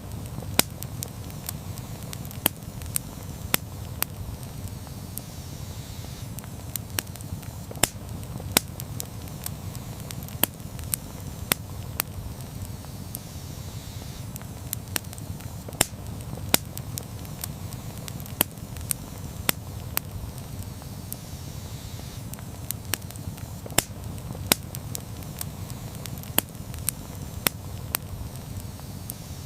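Wood campfire burning, a steady low rumble of flames with frequent sharp, irregular crackles and pops.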